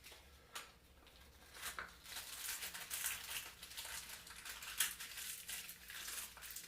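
Irregular crinkling and rustling with scattered small clicks and taps as new alternator bearings are handled, likely while being taken out of their packaging.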